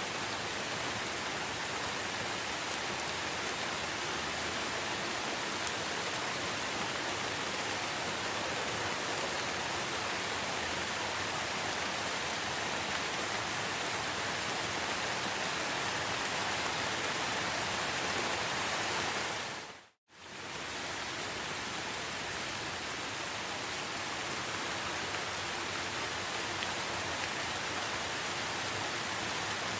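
Steady rain falling in a rainforest, an even hiss with no distinct calls. About two-thirds of the way through it fades out to silence for a moment and fades back in.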